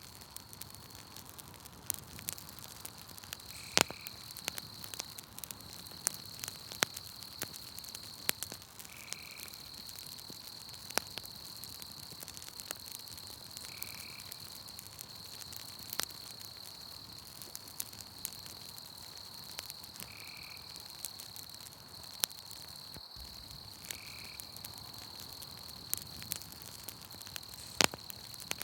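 Campfire crackling, with sharp irregular pops, over a steady high insect trill. A short call repeats every four to six seconds.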